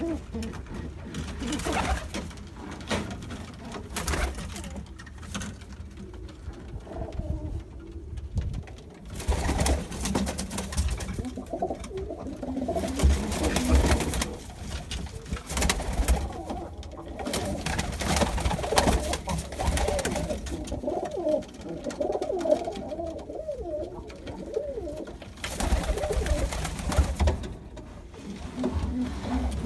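Several pigeons cooing, their calls overlapping, most densely through the middle stretch, with repeated brief noisy rushes in between.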